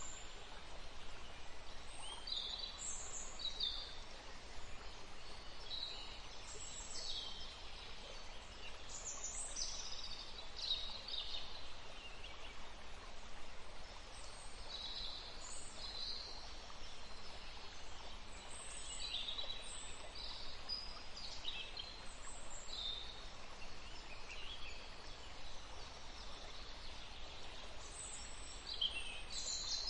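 Songbirds singing, with many short chirps and trills coming one after another, over the steady rush of a forest stream.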